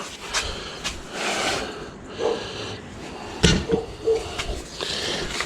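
A man straining and breathing hard as he tries to shift a heavy dental autoclave, with a couple of sharp knocks from the unit against the table.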